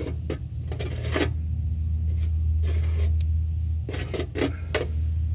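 Short scraping and rustling bursts of hands working at an exhaust pipe, heard over a steady low rumble.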